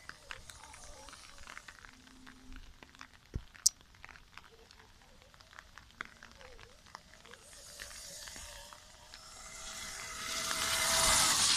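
Kuberg electric kids' motocross bike passing close near the end: a motor whine and a rush of tyre noise that swell up and then fade. Before that, only scattered light clicks and ticks.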